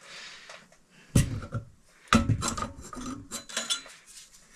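Metal ceiling fan parts clinking and knocking together as they are handled during installation: one sharp knock about a second in, then a quick run of clicks and clinks.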